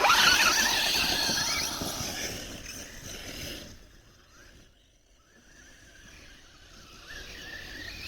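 Radio-controlled truck's electric motor and gears whining as it drives off hard, with a wavering pitch. The whine fades after about three seconds, then builds again near the end as the truck drives once more.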